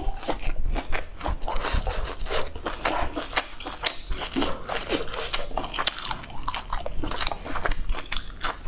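Close-miked eating of lettuce and sausage: a continuous run of crisp crunches and wet clicks from biting and chewing.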